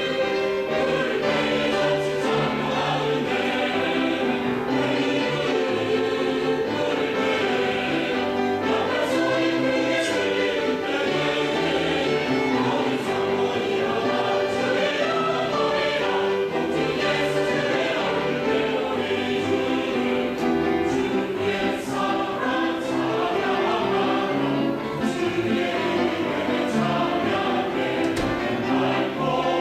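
Church choir singing a sacred anthem, many voices together at a steady, full level.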